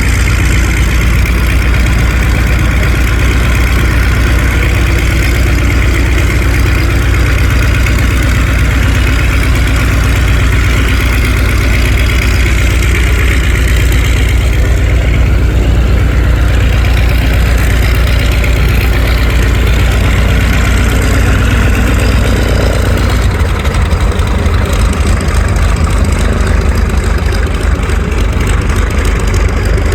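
F4U Corsair's Pratt & Whitney R-2800 radial engine running steadily at idle, loud and unbroken.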